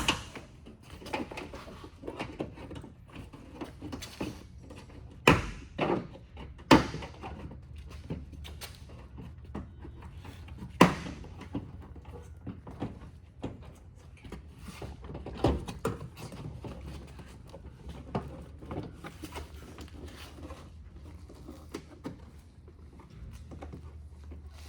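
Plastic retaining clips of a Mercedes-Benz Sprinter door trim panel popping loose as the panel is pried off with a plastic pry tool: a handful of sharp snaps spread out, among quieter clicks and knocks.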